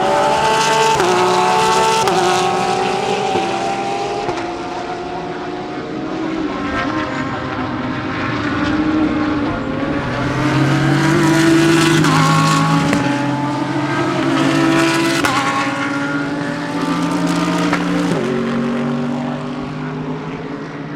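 GT3 race cars passing one after another at speed. The engines rev up through the gears, with a quick step in pitch at each upshift, and the sound swells as each car goes by.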